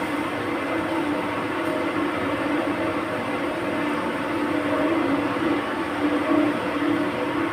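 Steady mechanical drone: a constant rushing noise with a low humming tone that wavers slightly in level.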